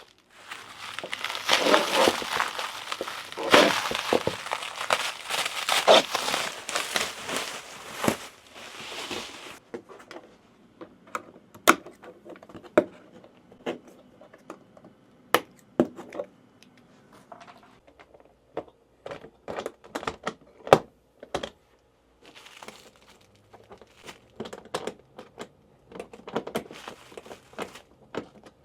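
Packaging being torn and crinkled open for the first nine seconds or so. After that come scattered sharp clicks and light knocks as the packed items are handled.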